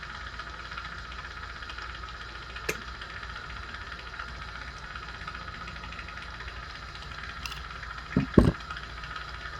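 Jeweler's soldering torch with a number 4 tip burning with a steady hiss. A couple of faint clicks, then two loud knocks in quick succession near the end.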